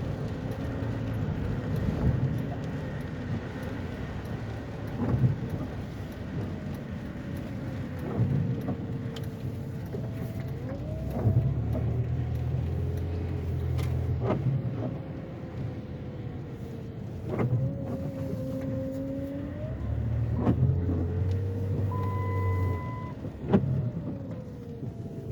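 Car driving, heard from inside: road rumble and an engine whose pitch rises and falls, with short knocks about every three seconds and a brief beep near the end.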